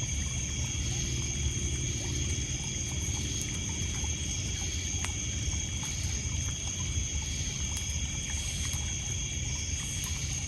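Crackling campfire with scattered sharp pops, over a steady high-pitched chorus of crickets and other insects and a low steady rumble.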